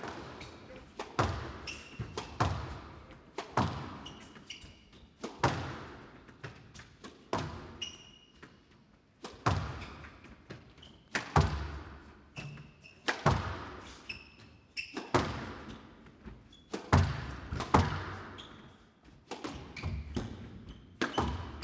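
Squash rally: the ball is struck by rackets and hits the walls in sharp cracks every second or two, each ringing briefly in the court, with short high squeaks of shoes on the court floor between shots.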